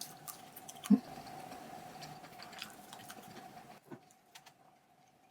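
Chewing a dense, chewy chocolate bar studded with nuts: small crunchy clicks of nuts and chocolate, with one louder mouth sound about a second in, going nearly silent near the end.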